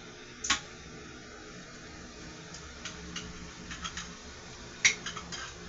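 Scattered light clicks and taps of dishes and cutlery during a meal: a sharp one about half a second in, a few faint ones in the middle, and a sharper click with a couple of lighter ones near the end, over a low steady room hum.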